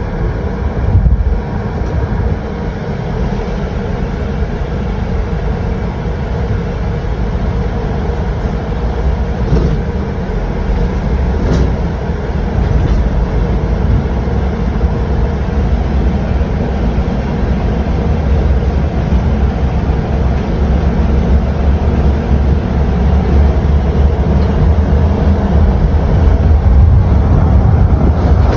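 Steady low rumbling noise of a vehicle in motion, growing slightly louder toward the end.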